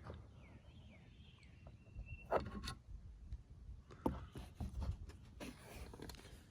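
Soft clicks and knocks from handling the rifle's parts, a pair about two seconds in and another about four seconds in, with short rustles near the end. Birds chirp faintly in the background.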